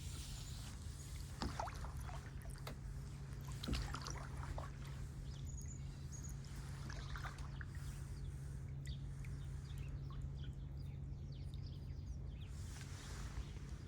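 Kayak paddle dipping into the water in irregular strokes, with splashes and drips off the blade, over a steady low hum.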